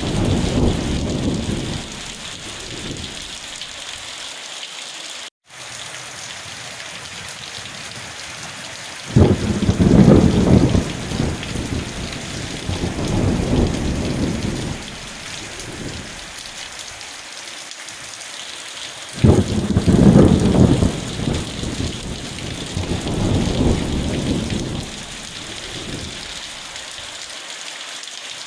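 Steady rain with rolling thunder: a rumble dying away at the start, then two long peals about ten seconds apart, each breaking suddenly and fading over several seconds. The sound cuts out for a split second about five seconds in.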